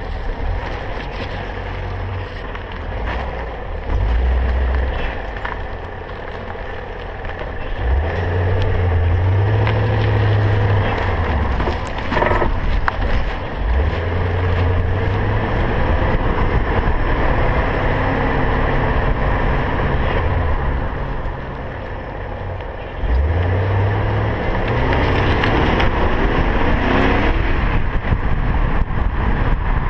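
2000 BMW M5 driving slowly with steady road noise and low rumbling that comes and goes. About twelve seconds in there is a single sharp knock from the car, the kind of front-end clunk over bumps that new sway bar links have not cured.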